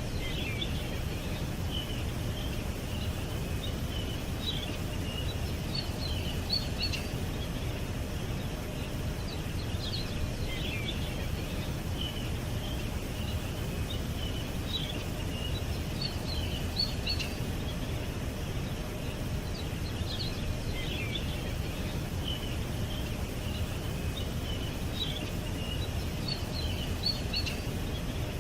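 Songbirds chirping and trilling in short, quick phrases over a steady low background rumble. The same run of chirps recurs about every ten seconds.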